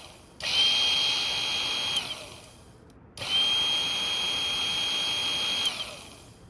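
Niche Zero coffee grinder's brushless motor module run twice briefly, each time with a steady, high-pitched whine that starts abruptly and fades as the motor spins down. The owner traces the whine to the gearbox or the brushless motor and takes it for a defect.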